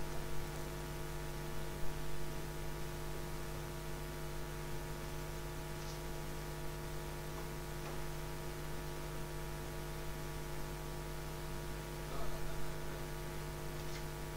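Steady electrical mains hum made of several fixed tones, with a few faint ticks.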